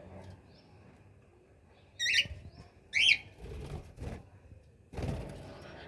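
A caged bird gives two loud, sharp chirps about a second apart, each sweeping in pitch, followed by bouts of rustling.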